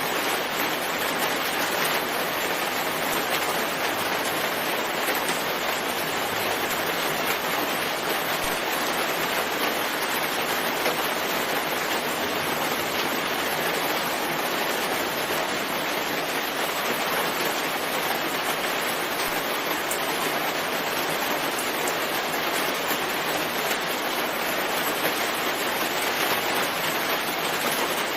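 Steady rain falling in a forest, an even hiss with no let-up.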